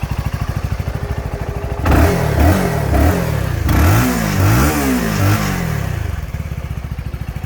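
CFMoto 300SS single-cylinder engine on its stock exhaust, idling with an even pulse, then blipped on the throttle several times in quick rising-and-falling revs before settling back to idle. The owner calls it a healthy motor that sounds as it should.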